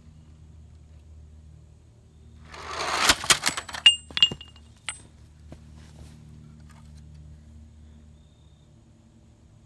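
A crash: a rising rush of noise builds to a cluster of sharp cracks and clatter with brief high ringing, about three to four and a half seconds in. A few lighter clicks follow, all over a steady low hum.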